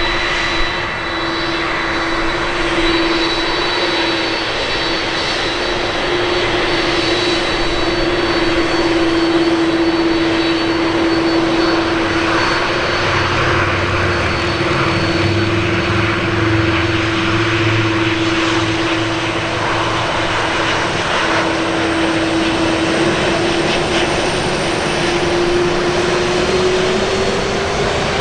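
Jet airliner engines running with a steady whine over a broad rush of noise. The whine rises slightly in pitch near the end, and a deeper rumble swells in the middle.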